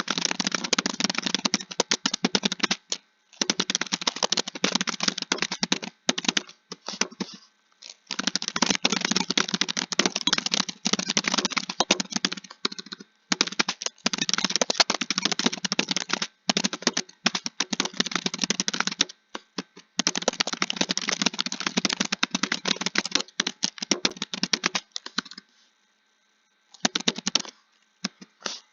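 Computer keyboard typed quickly in long runs of rapid keystrokes, stopping briefly every few seconds before going on.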